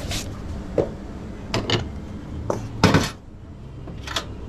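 Cups and utensils clinking and knocking at a coffee counter: about half a dozen sharp knocks, the loudest about three seconds in, over a low hum that drops away just after it.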